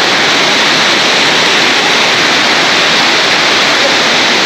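Waterfall rushing close by: a loud, steady roar of falling water that does not let up.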